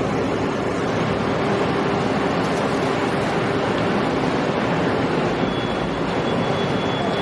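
Steady rumble of motorboat engines mixed with rushing water and wind.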